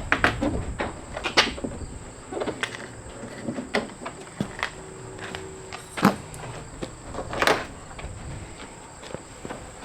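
Scattered clicks and knocks of parts being handled and fitted, with a steady high insect trill behind them.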